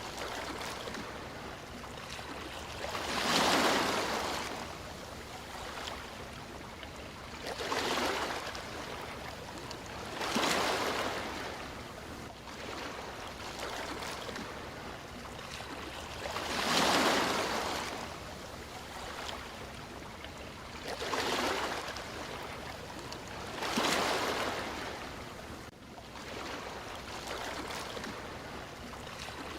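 Sea waves breaking: about six swells of surf noise, each building and fading over a second or two, a few seconds apart, over a steady wash of water.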